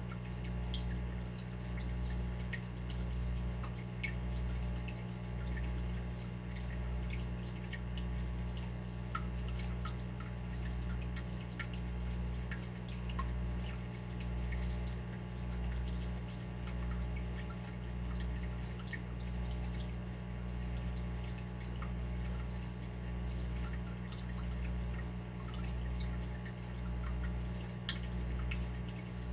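Water dripping, with scattered small drips over a steady low hum that swells and fades about once a second.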